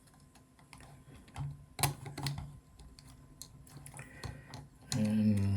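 Light, scattered plastic clicks and taps of a robot chassis being handled as a battery is pushed into place, with one sharper click about two seconds in.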